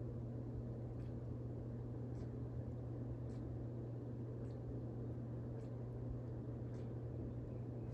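Steady low electrical-sounding hum over a soft background hiss, with a faint tick about once a second.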